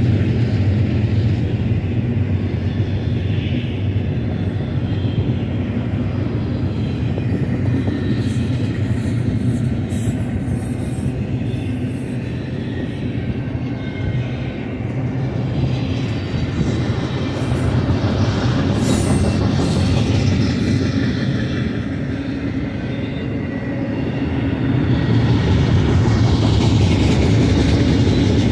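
Double-stack container well cars of a BNSF intermodal freight train rolling past, steel wheels running on the rails in a steady rumble that swells and eases a little as the cars go by.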